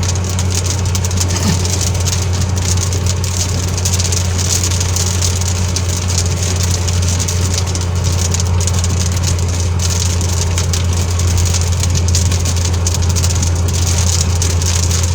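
Steady drone of a car driving at road speed, heard from inside the cabin: a deep, even engine-and-road hum with a constant hiss over it.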